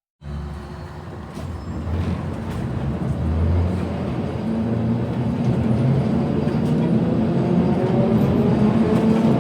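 Heritage electric tram under way, its wheels and body rumbling along the track, cutting in suddenly. From about halfway through, the whine of its traction motors rises in pitch as it gathers speed.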